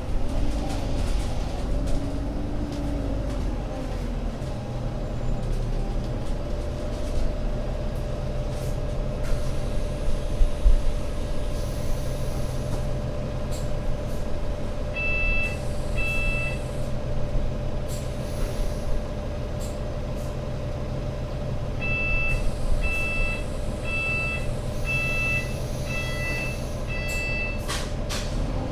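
Alexander Dennis Enviro500 MMC Euro 6 double-decker bus's diesel engine, its pitch gliding over the first few seconds, then running steadily at idle. A string of electronic beeps comes twice, two beeps past the middle and six near the end, with short hisses of air.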